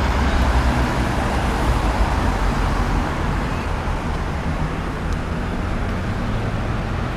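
Car engines running amid street traffic: a steady low rumble with road noise, slightly louder in the first second.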